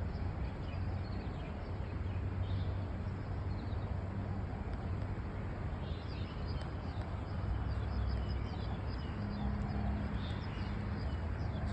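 Outdoor ambience: a steady low rumble with short, high bird chirps scattered through it, more of them from about six seconds in.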